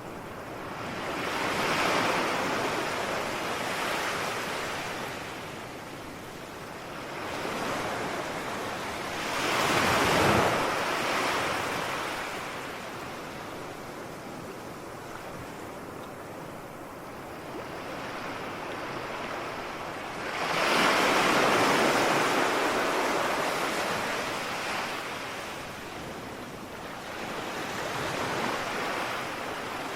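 Ocean waves breaking and washing up the shore, surging and falling away every several seconds, with the biggest surges about ten and twenty-one seconds in.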